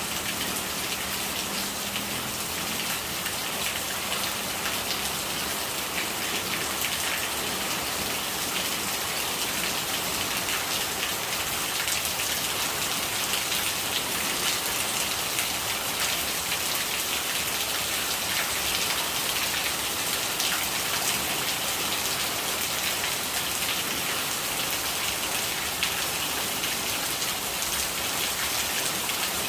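Steady rain falling: an even hiss of dense, fine drop ticks that holds level throughout.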